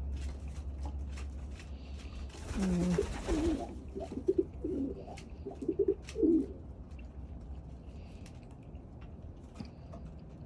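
Domestic pigeons cooing: a run of low coos from about two and a half to six and a half seconds in. A short burst of rustling noise comes at the start of the cooing.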